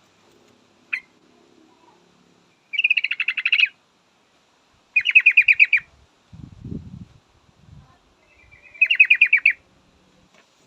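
Yellow-vented bulbul (trucukan) calls: three bubbly, rapidly pulsed chattering phrases of about a second each, presented as a female calling to males. A brief low rumble sounds between the second and third phrases.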